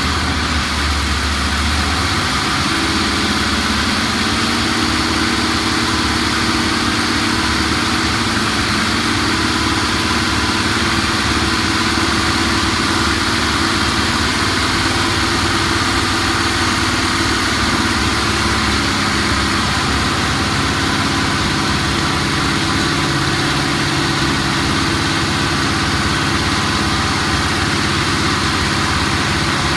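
An engine running steadily at idle, without revving.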